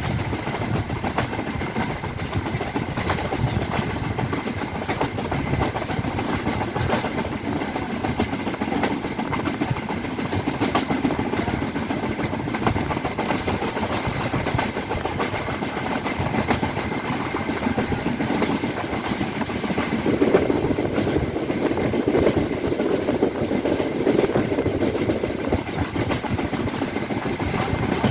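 Train running along the track, heard from on board: a steady rumble and rattle of the carriage, with wheels clicking over the rail joints. The rumble grows somewhat fuller about twenty seconds in.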